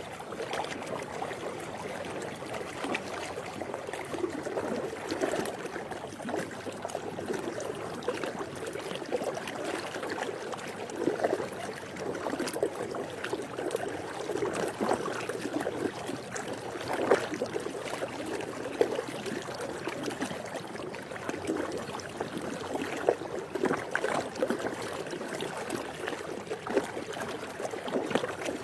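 Swimming-pool water lapping and splashing gently, a steady wash of water noise broken by many small, irregular splashes.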